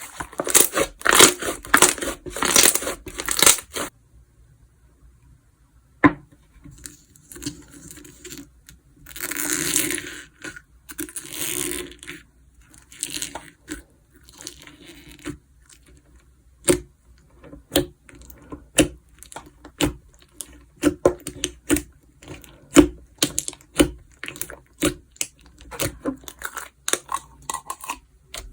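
Hands playing with slime: a dense crinkly crackle for the first few seconds, then after a pause a slower run of sharp clicking pops, about one or two a second, with a couple of longer squishy hisses in between.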